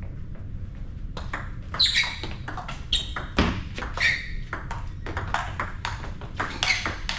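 Table tennis rally: the celluloid ball clicking back and forth off paddles and table in a quick, irregular run of sharp pings. It starts about a second in and runs on, with an occasional shoe scuff among them.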